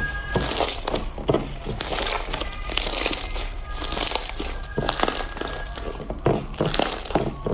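Slime being squished and worked by hand, making irregular crackling and popping noises.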